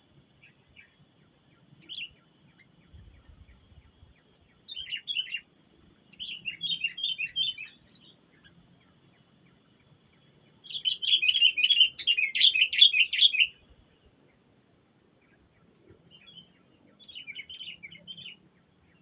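Sooty-headed bulbul (kutilang) giving chattering calls in several bursts of quick notes, the longest and loudest run about 11 to 14 seconds in.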